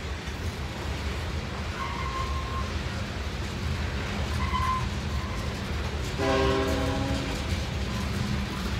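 Freight train of covered hopper cars rolling past, a steady low rumble of wheels on rail with a few brief high wheel squeals. About six seconds in, a locomotive air horn sounds a chord for just over a second.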